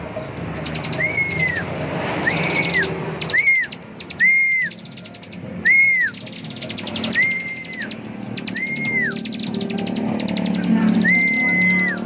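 Bar-winged prinia (ciblek) singing in full song: fast buzzy, machine-gun-like trills (ngebren), with clear arched whistles that rise and fall, repeated about once a second.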